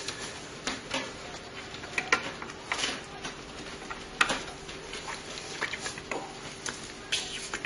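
Hands handling parts and cables inside a desktop PC case: irregular small clicks, taps and scratching, over a faint steady hum.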